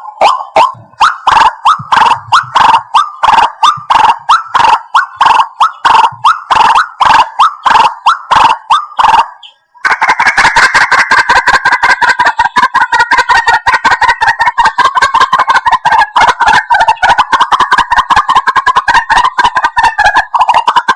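White-breasted waterhen calling: loud, evenly repeated croaking notes about three a second. After a short break about halfway through, they turn into a faster, denser chatter.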